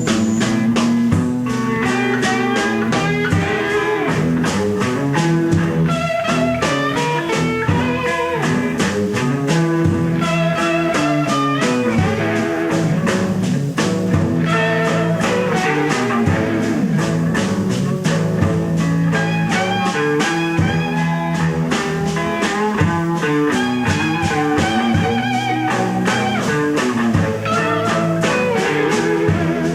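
Electric blues band playing live: electric guitar lines over a steady drum beat.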